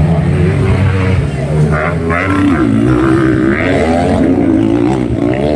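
Trail motorcycle engines revving hard, pitch rising and falling repeatedly as they accelerate and shift, over a steady low drone.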